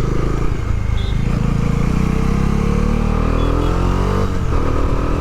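Bajaj Dominar 400's single-cylinder engine pulling under acceleration, its pitch rising for about three seconds, then dropping back about four seconds in.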